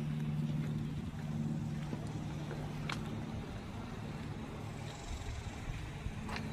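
A steady engine hum that fades out about five seconds in, over outdoor background noise, with two brief sharp clicks.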